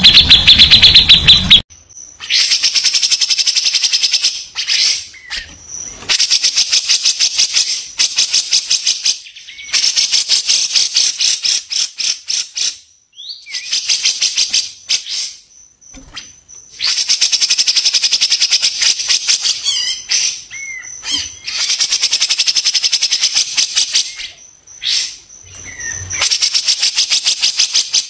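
Songbird recording: repeated bursts of rapid, rattling chatter, each two to three seconds long, about seven in all with short pauses between, over a faint steady high tone.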